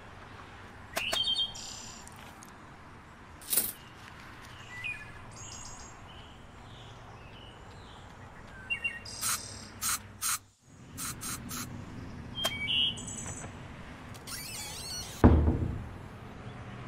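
Birds chirping on and off over a low steady background, with scattered sharp clicks and one loud thump near the end.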